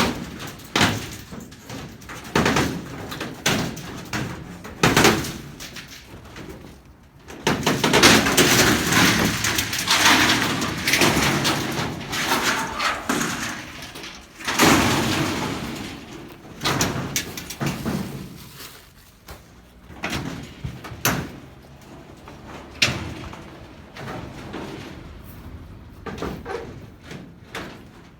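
Corrugated metal roofing sheets being pulled apart and handled: repeated sharp bangs and clanks, with a long rasping, scraping clatter of sheet metal about eight seconds in.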